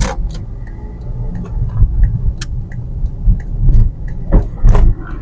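Low, steady road and engine rumble heard from inside a moving car's cabin, with scattered sharp clicks and a few louder knocks near the end.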